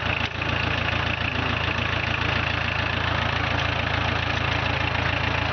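Volkswagen 1.6 litre four-cylinder diesel engine of a TZ4 K14 mini tractor idling steadily.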